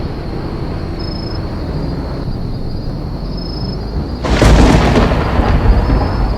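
A thunderclap: a sudden loud crack about four seconds in that rolls on into rumbling thunder, over a steady low rumble.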